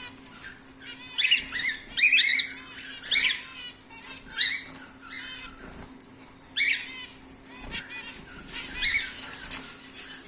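Cockatiels calling: short chirping calls, some single and some in quick runs of two or three, coming every second or two. A faint steady hum sits underneath.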